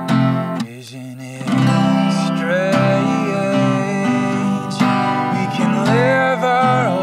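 Acoustic guitar strummed steadily in an instrumental passage, dropping back briefly about a second in. From about two and a half seconds a held, sliding melody line plays over the chords.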